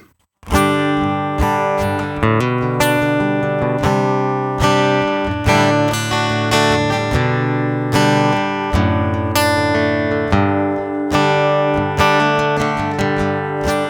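Yamaha acoustic guitar played through its piezo pickup, the plain piezo signal: a short chord progression picked and strummed, with a new chord or note about every second, starting about half a second in.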